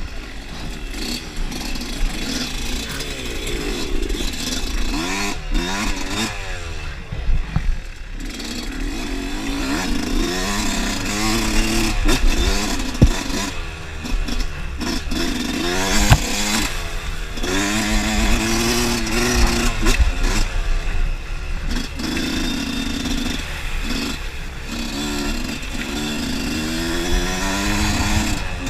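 Dirt bike engine revving up and down over and over, the throttle opened and shut in short bursts with brief drops in between.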